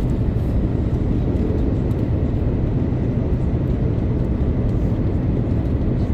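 Steady low rumble of an Airbus A330-900neo heard from inside the passenger cabin: engine and airflow noise, even throughout with no distinct events.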